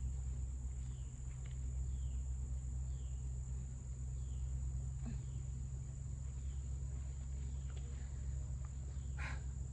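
Insects trilling in one steady high-pitched tone over a steady low rumble, with faint short chirps repeating about once a second. About nine seconds in come two brief rustles, digging in the soil.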